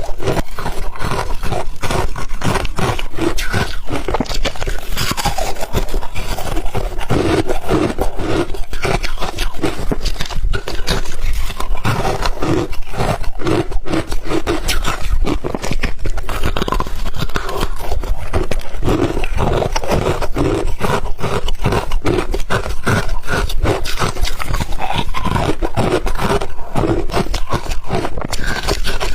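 Close-miked chewing of crunchy frozen ice: a continuous run of dense, irregular crunches and cracks as the ice is bitten and ground between the teeth.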